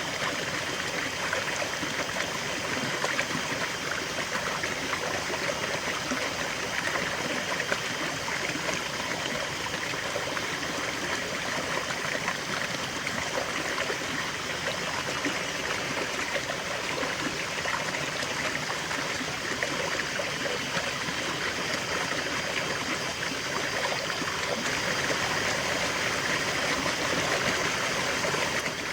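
River water flowing steadily over stones, a continuous rushing with fine trickling and gurgling.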